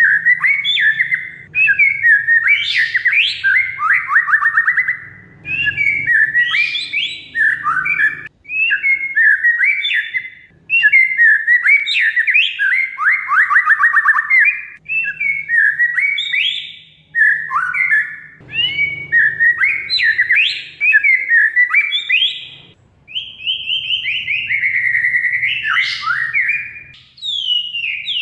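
Oriental magpie-robin (kacer) singing loudly and without pause: a long, varied song of rapid chattering trills, sweeps and whistled glides, in phrases broken by short gaps, over a faint low hum.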